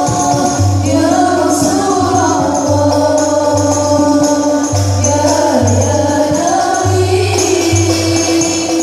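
Sholawat music: a sung melody over hand percussion with tambourine-like jingles and a low bass note repeating about once a second.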